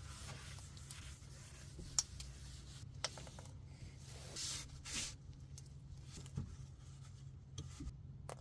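Faint handling noises: soft rubbing and scraping with a few sharp clicks, over a low steady hum.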